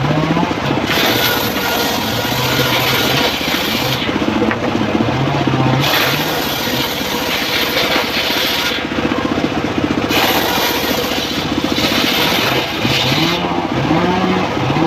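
Engine of a homemade circular sawmill running under load, its pitch repeatedly dipping and recovering as the blade cuts teak. The high hiss of the blade in the wood comes and goes in stretches of a few seconds.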